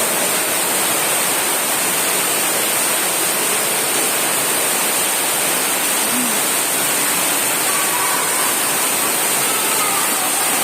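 Steady rushing of falling water, loud and unbroken, with faint distant voices near the end.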